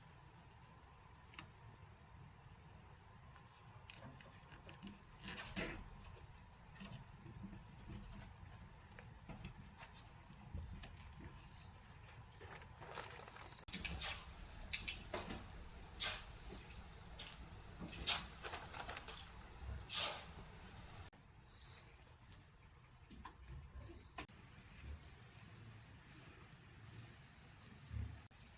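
Steady high-pitched chorus of insects trilling, growing louder near the end, with scattered clicks and knocks in the middle stretch.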